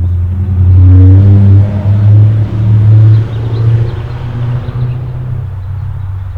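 A car's engine passing close by with a low rumble, loudest from about one to three seconds in and then fading.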